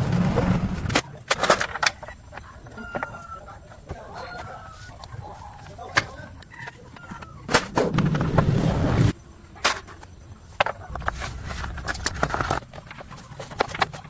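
Scattered sharp knocks and clatter, with a few stretches of low rumbling.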